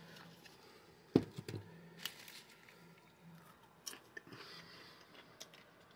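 Faint, scattered crunches and clicks of popcorn being chewed, the sharpest about a second in.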